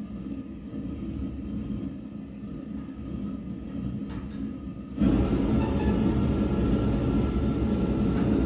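Old John Deere tractor's diesel engine running after starting, a steady low rumble. About five seconds in it suddenly becomes louder.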